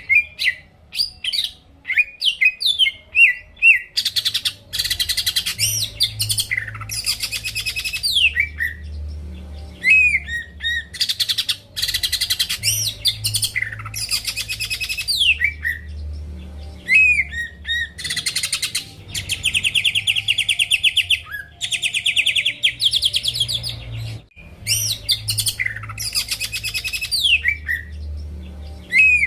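Green leafbird (cucak ijo) in full song: a continuous, varied stream of rapid trills, whistled phrases and falling slurs, repeated in bouts. A faint low hum runs underneath.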